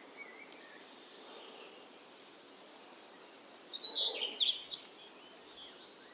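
A songbird singing a short, choppy phrase of high chirps about four seconds in, over a faint steady outdoor background hiss.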